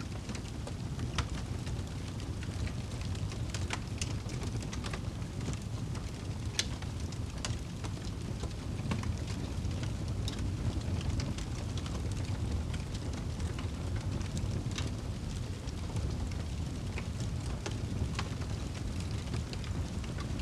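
Campfire crackling, with irregular sharp pops over a steady low rumble.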